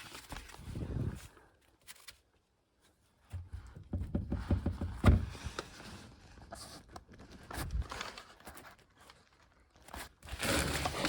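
Intermittent handling noises: knocks, clicks and scrapes in several bursts separated by brief quiet gaps.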